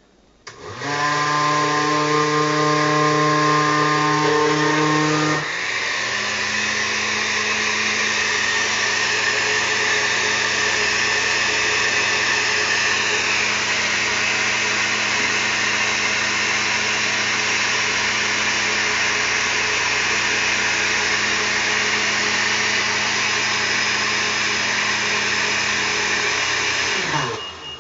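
Electric blender motor mixing crepe batter of milk, flour and egg: it starts up, shifts to a different pitch and slightly lower level about five seconds in, runs steadily, then winds down as it is switched off near the end.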